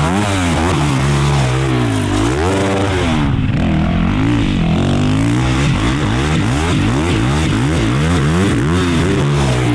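Off-road race engines revving on a motocross track, their pitch climbing and dropping over and over about once a second, with more than one engine running at once.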